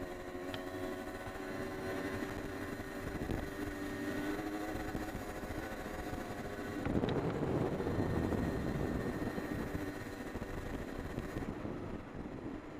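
Honda CR250R two-stroke dirt bike engine running under way, its pitch shifting as the throttle is worked. There is a louder, rougher stretch about seven seconds in.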